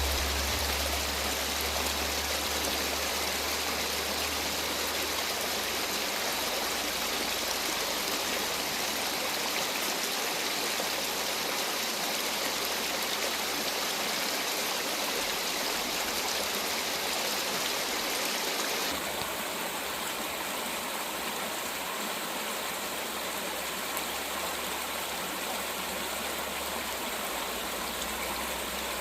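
Mountain stream running steadily over rocks, a continuous wash of water. Its tone changes abruptly about two-thirds of the way through.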